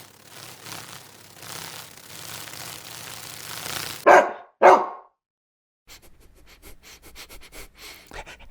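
A dog barking twice, two loud barks half a second apart about four seconds in, after a steady hiss. After a short silence a run of soft clicks follows.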